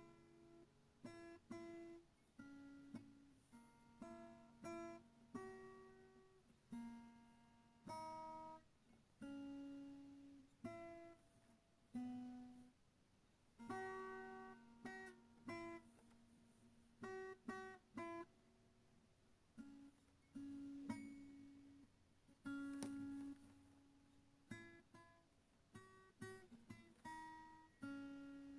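Soft background music of plucked acoustic guitar: single notes and chords picked at an unhurried pace, each ringing and fading.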